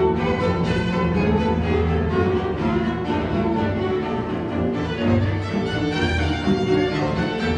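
A chamber string orchestra playing, with violins to the fore over sustained cellos and basses.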